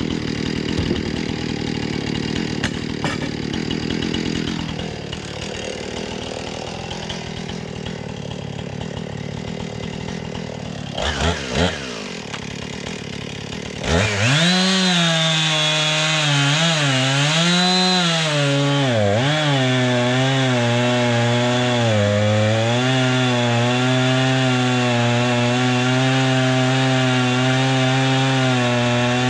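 Small gasoline engine of a saw cutting wood. About 14 seconds in, the engine note comes up strongly, dips and recovers several times under the load of the cut, then settles to a steady pitch.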